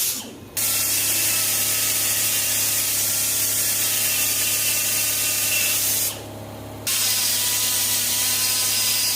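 Die grinder running and grinding out cracks in a cast aluminium motorcycle rearset mount, a steady high whine and rasp that breaks off briefly about half a second in and again around six seconds in.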